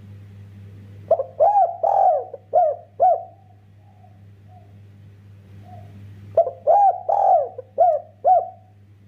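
Spotted dove (derkuku) cooing: two phrases of about six arched coos each, a few seconds apart, with a few fainter coos between them.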